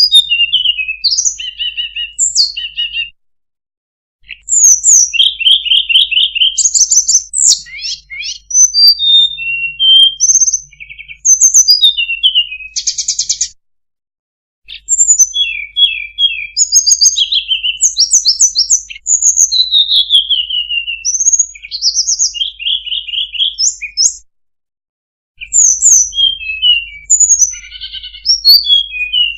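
Lure recording of the songbird called sulingan or tledekan in Indonesia: fast, varied high chirps and rapid trills in long bursts, broken by three short pauses of about a second.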